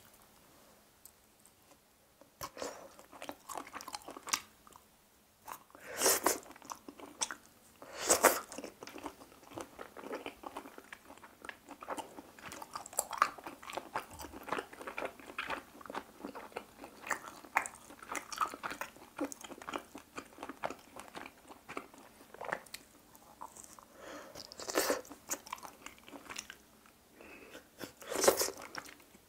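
Close-miked chewing and biting of grilled chicken hearts pulled off skewers: a steady run of irregular chewing noises, with a few louder bites scattered through.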